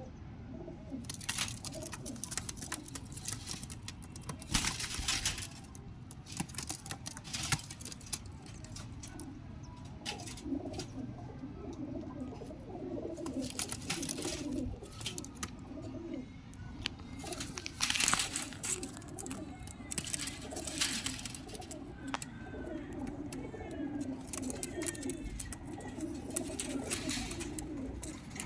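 Pigeons cooing over and over in a low warble, with brief loud rustling noises now and then.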